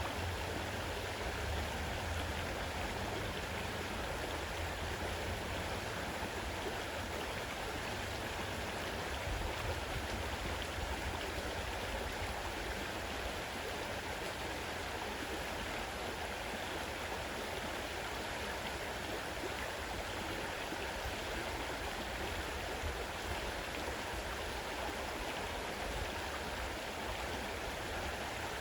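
Fast-running river rushing steadily over its bed, an even, unbroken wash of water noise with a deep low rumble beneath it.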